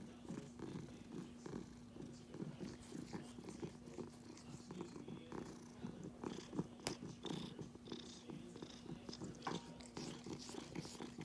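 Domestic cat purring steadily, a continuous rapid low pulsing.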